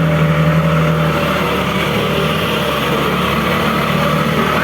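Boat motor running steadily: a low hum under a constant rush of noise.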